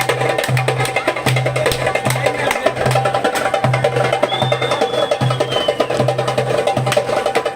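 Music: a fast, dense percussion rhythm of rapid drum strokes over a pulsing bass line. A brief high whistle-like tone sounds about halfway through.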